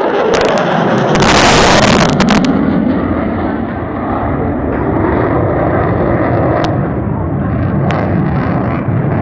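Loud jet noise from an F-16 fighter's single turbofan engine during its tight high-G turn demonstration. About a second in there is a harsher, hissing blast lasting a little over a second, then a steady low rumble.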